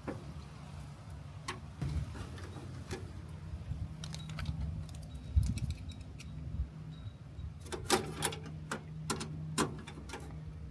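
Scattered metallic clicks and clinks of bolts and a license plate bracket being handled and fastened, with a quick run of louder clicks near the end, over a steady low hum.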